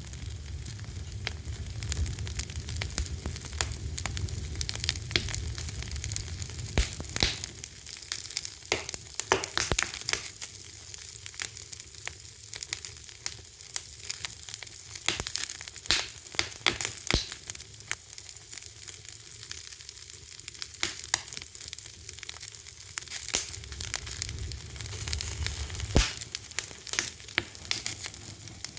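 Wood fire burning, crackling with frequent irregular sharp snaps and pops over a steady hiss, and a low rumble of flames at times.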